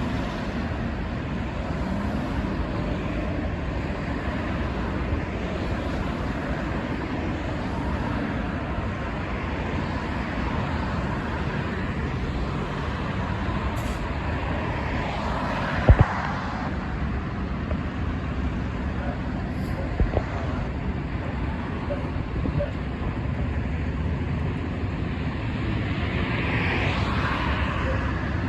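Road traffic noise, a steady rumble of vehicles on the road. A sharp knock comes about halfway through and a smaller one a few seconds later.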